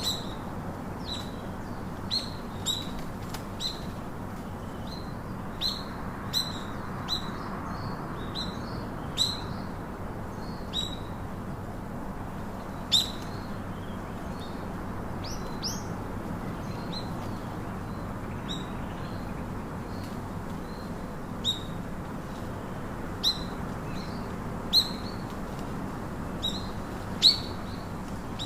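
A small bird giving short, sharp, high chirps, each dropping quickly in pitch, repeated at irregular intervals of about a second, a few louder than the rest, over a steady low background hiss.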